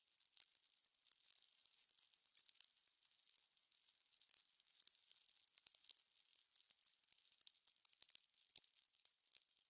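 Fire crackling: irregular sharp pops and snaps, several a second, over a soft hiss.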